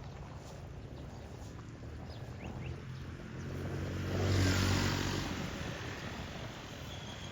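A motor vehicle passing by on the street: its engine and tyres grow louder to a peak about four and a half seconds in, then fade away.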